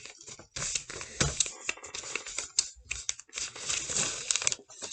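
A sheet of paper being folded and pressed into creases by hand, with irregular rustling and scraping.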